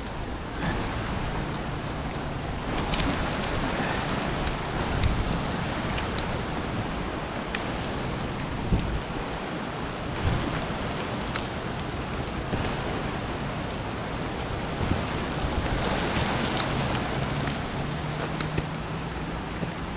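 Steady rain falling on hard surfaces, with scattered drops ticking close by and a faint low hum underneath.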